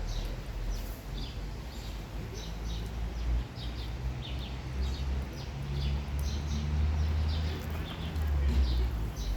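A small bird chirping over and over, short high chirps about twice a second, over a steady low rumble.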